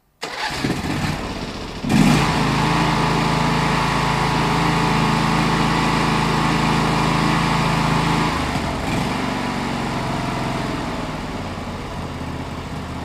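Used small mower engine starting up and settling into a steady run about two seconds in. About eight seconds in it drops to a lower speed and slowly grows quieter. It keeps running throughout, the sign of an engine in good working order.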